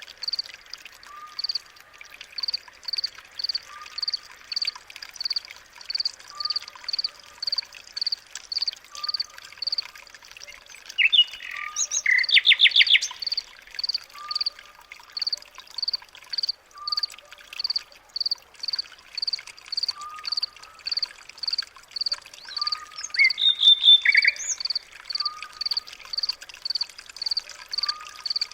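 Birds calling: a high note repeated about twice a second over a lower note about every second and a half, with louder bursts of rapid chirping about twelve and twenty-four seconds in.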